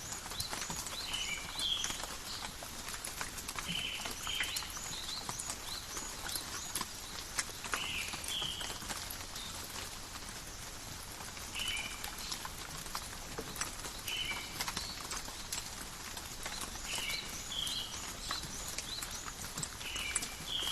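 Steady rain falling in a forest, with sharp drips pattering throughout. Short high chirps, often in quick pairs, repeat every few seconds over the rain.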